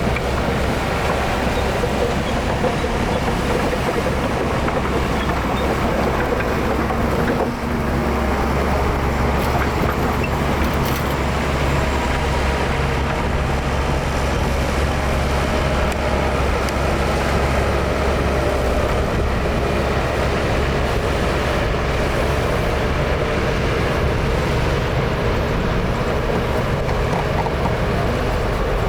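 Heavy diesel engine of earthmoving machinery running steadily under load, with a low, even engine note that dips briefly about seven and a half seconds in.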